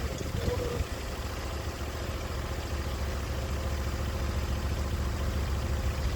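Sawmill's engine running steadily at an even idle-like pace, with no blade cutting heard.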